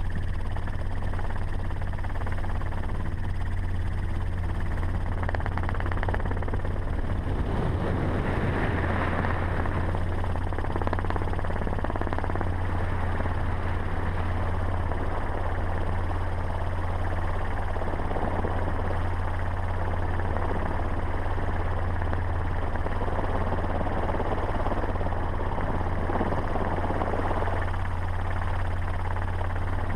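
Helicopter running in steady flight: a constant low drone that holds one pitch, with rough rushing noise over it.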